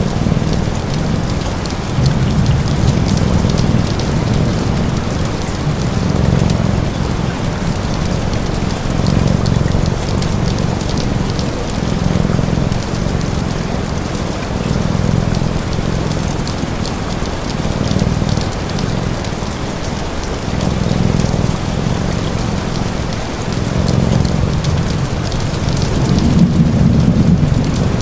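Steady heavy rain falling, with a low rumble underneath that swells and fades every second or two.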